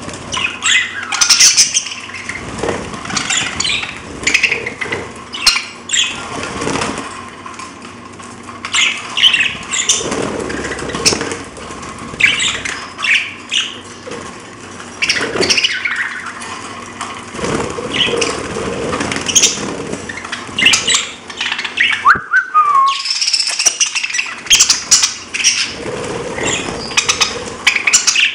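Pet parrots chirping and squawking, many short sharp calls following one another throughout, with a brief rising whistle about three-quarters of the way through.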